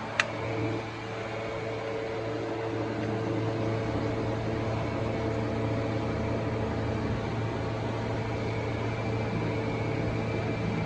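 Toyota Premio's 1ZZ 1.8-litre four-cylinder engine idling steadily, with one sharp click just after the start.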